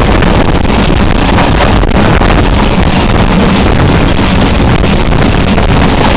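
Steady running noise of a diesel-hauled express train at high speed, heard at the coupling behind the HGMU-30 locomotive: wheels rumbling on the rails, with wind buffeting the microphone.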